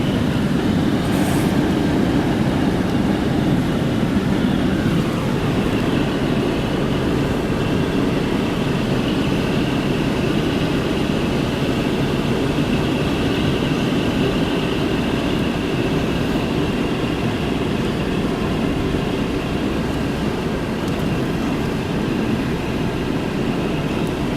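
Steady rumble of a moving vehicle, with a faint high whine running through it and no change in speed.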